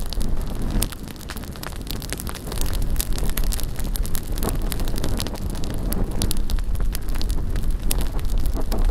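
A large bonfire crackling and popping, with many sharp irregular cracks, over heavy wind rumble on the microphone.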